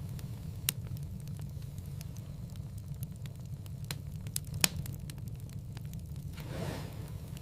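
Wood fire crackling in a fireplace over a steady low rumble, with frequent small snaps and one sharp, louder pop about four and a half seconds in.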